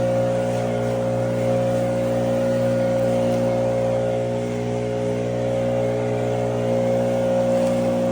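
Small engine running steadily at one constant speed, an even hum that holds the same pitch throughout.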